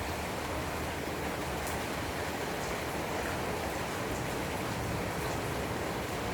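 Heavy rainstorm: a steady downpour, with a few faint high ticks of single drops over it.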